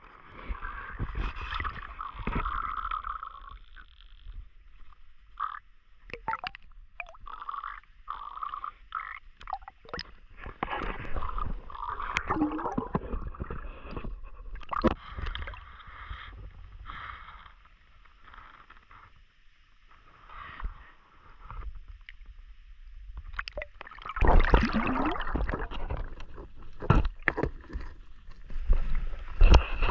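Water splashing and gurgling around a swimmer moving through a shallow stream, with irregular knocks and splashes. The splashing grows louder and heavier near the end.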